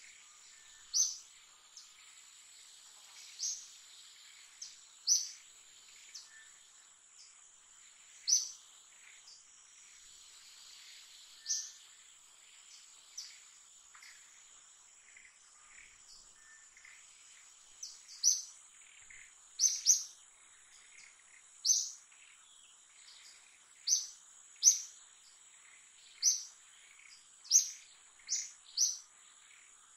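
Short, sharp bird chirps repeating every second or two, coming faster in the second half, over a steady high-pitched insect drone of a forest.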